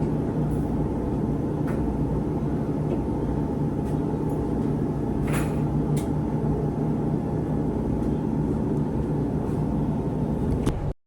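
Steady low rumble and hum of a truck running, with a few faint clicks. It cuts off abruptly near the end.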